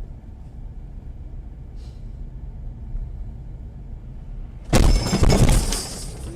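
Low, steady rumble of a car's engine and road noise heard from inside the cabin. About two-thirds of the way through, a sudden loud crash lasting about a second, most like a collision impact.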